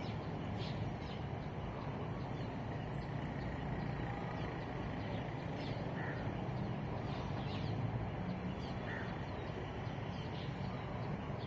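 Steady low rumble of distant traffic with a bird calling briefly twice, about six and nine seconds in.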